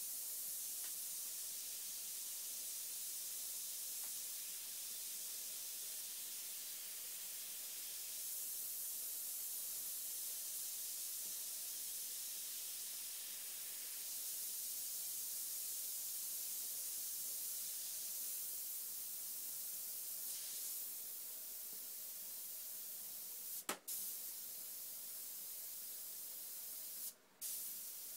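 Airbrush spraying paint with a steady high hiss. Near the end there is a sharp click and a brief break in the hiss.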